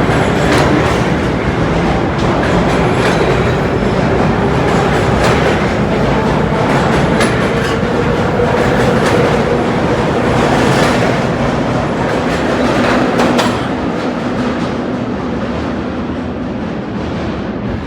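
Vintage R1/R9 subway train running on the rails: a steady loud rumble with wheels clicking over rail joints and a steady low tone, getting a little quieter about thirteen seconds in.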